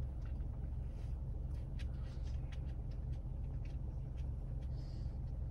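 Steady low rumble of a car idling, heard from inside the cabin, with faint scattered clicks and taps of a plastic baby car camera mount being handled and adjusted.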